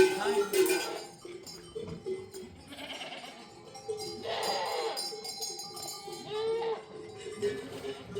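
A herd of livestock bleating several times, with animal bells ringing steadily underneath.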